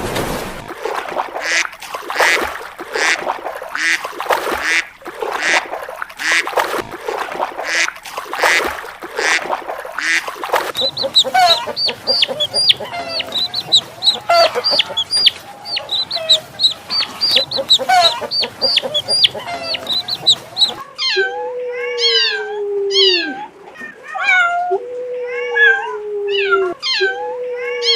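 Recorded animal calls in three different stretches: harsh repeated calls about once or twice a second, then a busy run of high chirps, then a few long calls that fall in pitch near the end.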